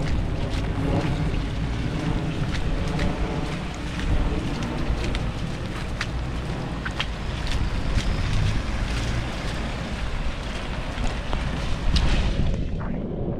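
Wind buffeting the microphone with a low rumble over a steady hiss of rain, with scattered sharp taps; about a second before the end the high hiss suddenly drops away.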